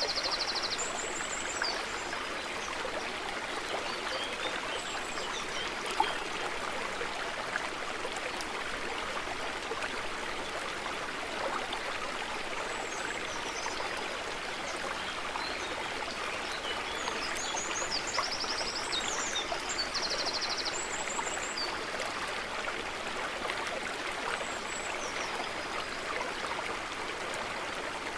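A forest stream running steadily over rocks, with small birds chirping and trilling now and then, most around the start and again about two-thirds of the way through. One brief tap about six seconds in.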